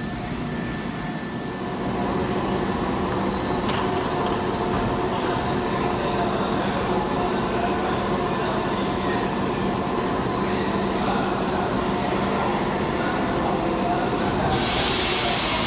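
Keisei electric commuter train slowing to a stop at a station platform, then standing with the steady multi-tone hum of its onboard electrical equipment. Near the end a loud hiss of compressed air bursts out from the train.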